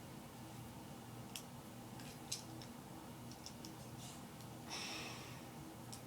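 Faint scattered clicks, then a short crinkling rustle about five seconds in: plastic wrap on a toy's packaging being picked at and peeled.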